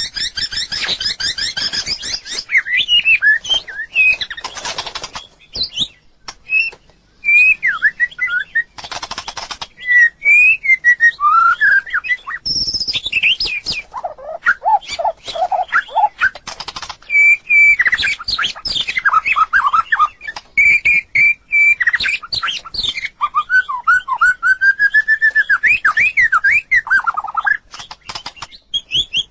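White-rumped shama singing a varied run of clear whistled phrases that glide up and down, broken by harsh rasping rattles. A few lower, repeated notes fall in the middle of the song.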